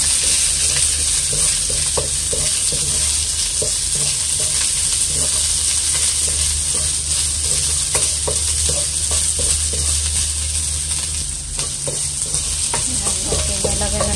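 Sliced onion and garlic sizzling in a little oil in a nonstick wok, stirred with a wooden spoon that scrapes and taps against the pan, over a steady low hum.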